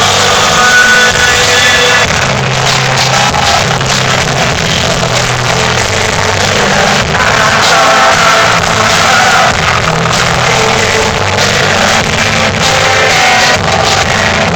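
Rock band playing live with a singer, in a poor-quality, loud recording.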